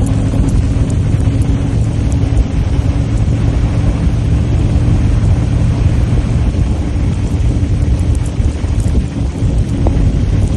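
Motorcycle engine running steadily while riding, with heavy wind rumble over it.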